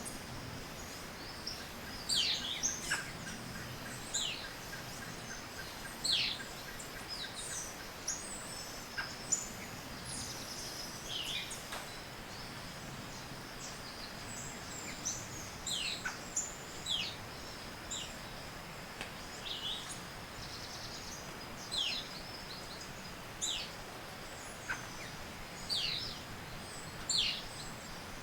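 Tropical forest morning bird chorus: many short, sharply falling call notes, one every second or two, mixed with higher chirps, over a steady high-pitched tone.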